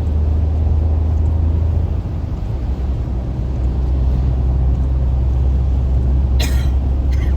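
Car cabin noise while driving on a highway in rain: a steady low engine and road rumble that shifts slightly about two seconds in. Two short hissing swishes come near the end.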